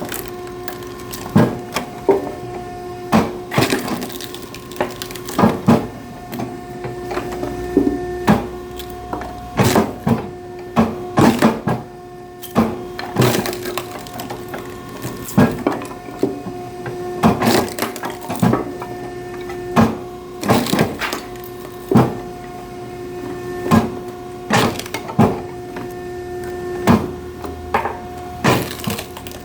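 Oak firewood being split, with repeated sharp cracks and splintering about once a second over a steady machine hum.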